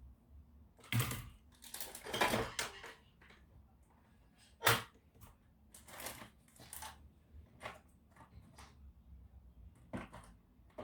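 Irregular clicks, taps and scrapes of small plastic and metal laptop parts being handled during disassembly, with the sharpest click a little under five seconds in.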